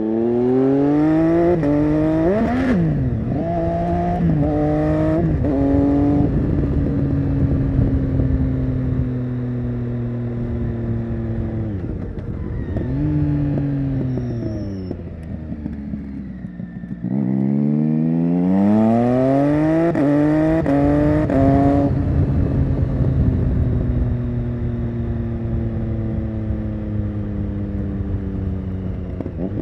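Triumph Street Triple 675 Rx's inline three-cylinder engine through an SC-Project Conic exhaust, accelerating hard through several rapid upshifts at the start. It eases off and drops low in pitch about halfway, then pulls hard through quick upshifts again, and settles into a steady, slowly falling cruise near the end.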